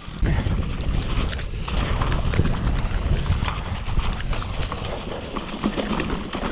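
Downhill mountain bike clattering over a wet, rocky trail section: rapid irregular knocks and rattles from the bike over a steady low rumble of wind on the camera mic.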